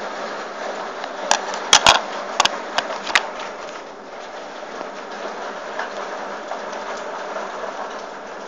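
Heavy rain falling, a steady hiss, with a quick run of five or six sharp clicks or taps between about one and three seconds in.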